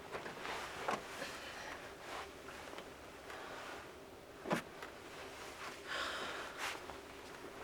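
Faint handling sounds in the enclosed bed of a pickup truck as gear and bedding are moved: scattered clicks and rustles, with a sharp knock about four and a half seconds in and a short rustle around six seconds.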